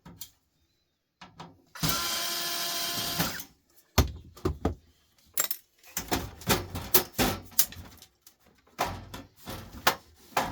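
Cordless drill-driver running for about a second and a half while screws are removed, then a string of sharp clicks and clatters as the metal parts and screws are handled.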